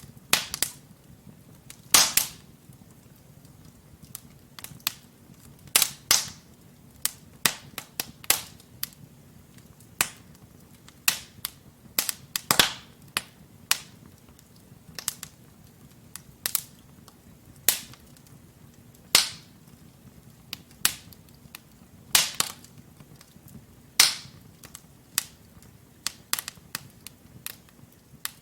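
Wood fire of burning logs in a fireplace crackling: irregular sharp pops and snaps, several of them loud, over a faint steady low rumble of the flames.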